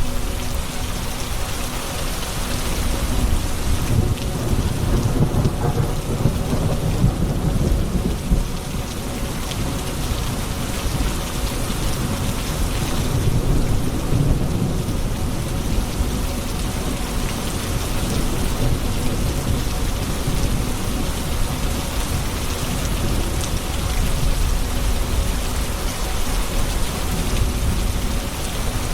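Steady heavy rain falling, with low rolls of thunder rumbling up twice, a few seconds in and again around the middle.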